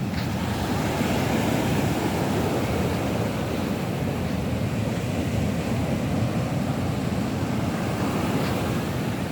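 Rough sea surf on a beach: a continuous, steady wash of breaking waves.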